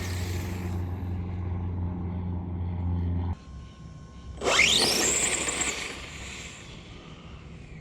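An electric RC pan car's motor whines, climbing quickly from low to very high pitch over about a second as the car launches on a drag run, then fades away. Before it, a steady low hum cuts off abruptly about three seconds in.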